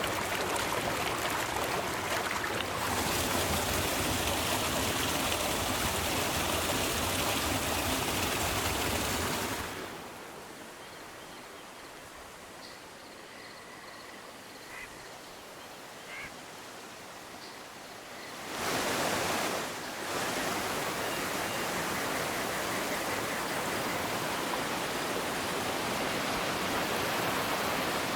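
River water flowing in a steady rush. About ten seconds in it drops abruptly to a quieter, calmer stretch of water with a few faint short sounds over it, then the full rush comes back about two-thirds of the way through.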